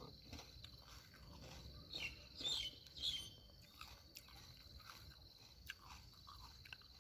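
Faint chewing of a raw mini sweet pepper (snack pepper), soft crisp clicks of the flesh between the teeth. A few short bird chirps come about two to three seconds in, over a steady high insect buzz.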